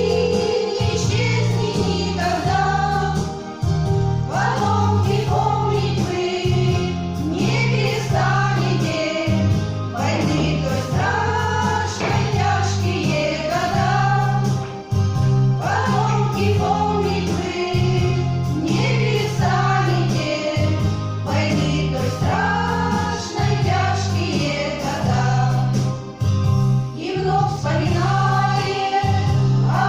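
Women's vocal ensemble singing together, phrase after phrase, over an instrumental accompaniment with a steady, stepping bass line.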